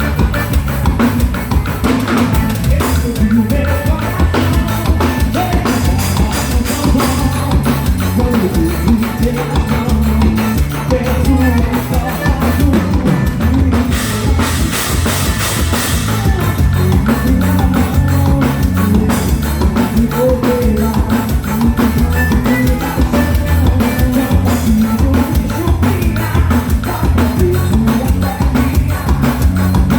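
A band playing a forró song, with a steady drum-kit beat and bass drum.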